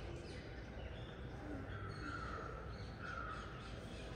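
Birds chirping faintly over a steady low background noise, with two brief louder calls about two and three seconds in.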